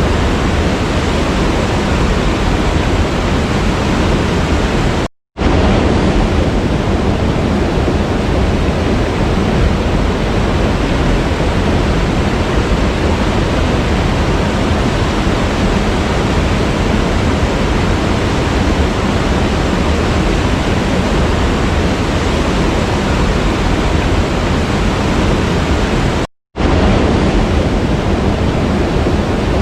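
Steady full rushing of a waterfall, cutting out to silence for a split second twice, about five seconds in and near the end.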